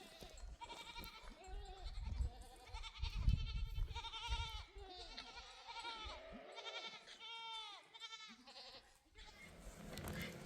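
Goats bleating, a quick succession of wavering calls one after another, fading out near the end.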